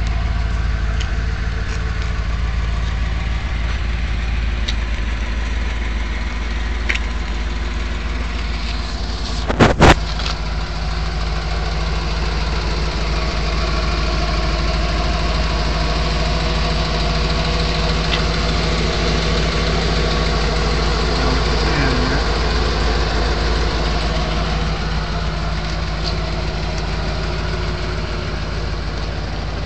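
A 1979 Mercedes-Benz 450SL's 4.5-litre V8 idling steadily. Two sharp knocks come close together about ten seconds in.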